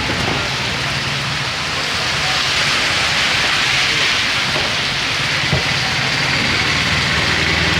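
Heavy rain falling and pattering on surfaces: a dense, steady hiss that grows slightly louder about two seconds in.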